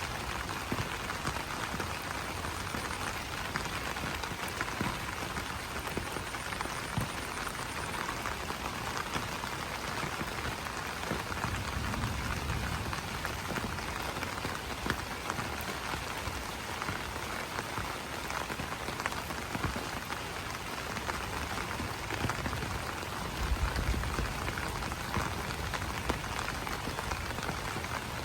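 Steady rain falling on broad banana leaves: a dense, even spread of small drop hits. A brief low rumble comes in about twelve seconds in and again a little before the end.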